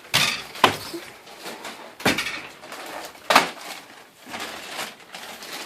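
Four sharp metallic clanks at uneven intervals, each with a short ring, from work on garage door hardware. The last two come about a second and a half apart.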